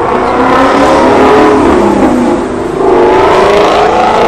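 A car engine accelerating hard. Its pitch climbs, drops about two seconds in, then climbs again.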